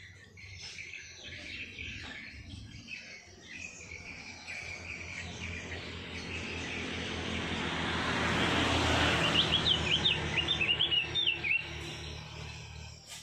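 Cage birds chirping and twittering, with a run of sharp, quick chirps between about nine and twelve seconds in. Under them a rushing noise swells to its loudest about nine seconds in and then fades.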